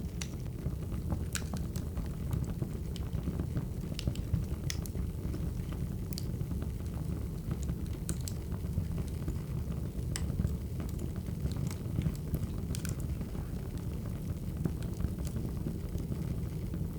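Wood fire crackling: a steady low rumble of burning logs with irregular sharp pops and snaps.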